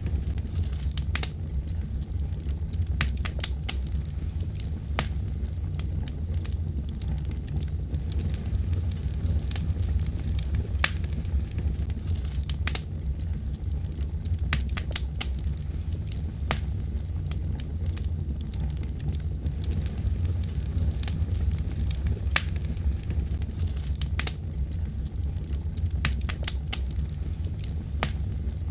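Crackling fire: irregular sharp pops and crackles, several a second, over a steady low rumble.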